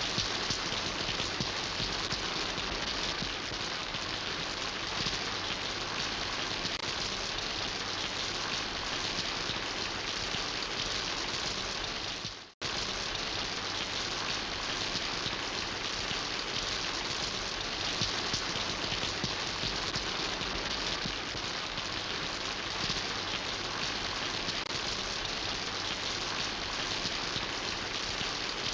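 Steady rain falling, a dense even patter of drops. About twelve seconds in it fades out to silence for a moment and then comes straight back.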